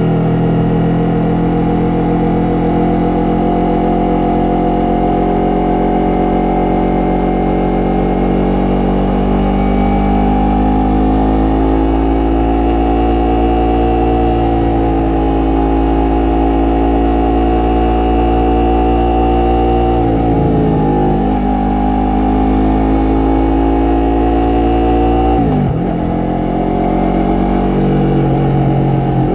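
Yamaha MT-03's 321 cc parallel-twin engine and exhaust running under load while riding, its pitch rising and falling slowly with the throttle. About two-thirds of the way through and again near the end, the revs drop sharply and climb back, as with a gear change, over a steady low rush of wind.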